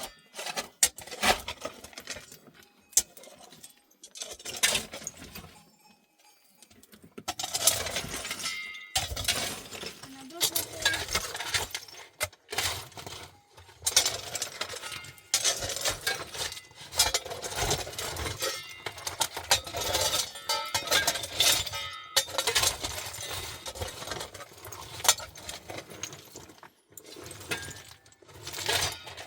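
Repeated clinks and knocks of hard objects, with a person's voice.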